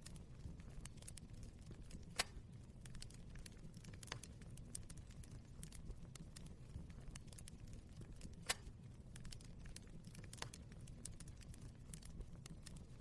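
Wood fire crackling: a steady low rumble of flames with frequent small snaps and a few sharper pops, the loudest about two seconds in and again past eight seconds.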